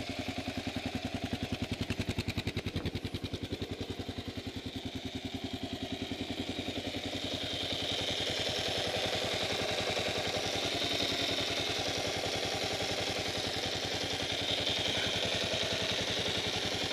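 2008 Kawasaki KLR650's single-cylinder four-stroke engine idling with an even, rhythmic beat. About eight seconds in, a higher whir and clatter comes up over the idle. This is the kind of noise the owner hears from the left side case after an oil change and likens to ball bearings.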